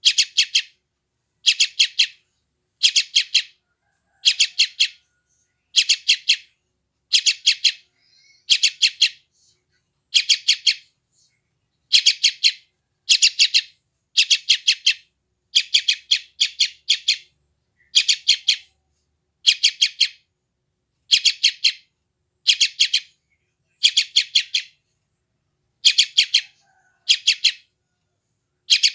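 Yellow-vented bulbul (trucukan) chick calling: short bursts of rapid, closely spaced high notes, repeated evenly about once every second and a quarter. These are the noisy calls of a hungry young bird.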